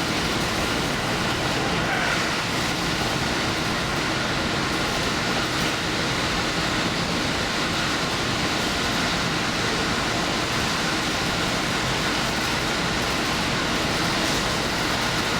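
Steady running noise of the Furano Lavender Express diesel limited express train under way, heard from the front of the train as an even, unbroken sound with no distinct wheel clicks.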